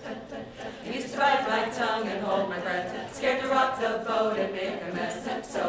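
A cappella chorus singing sustained chords with no instruments. It comes in about a second in, louder than the quieter voices before it.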